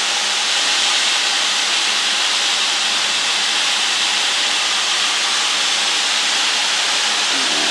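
Steady cabin noise of a light aircraft in flight: the engine and airflow heard as an even, unbroken hiss.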